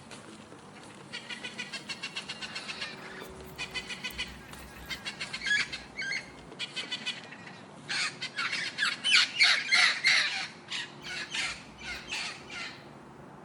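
Birds calling: harsh squawking calls in rapid runs, the loudest cluster about eight to ten seconds in.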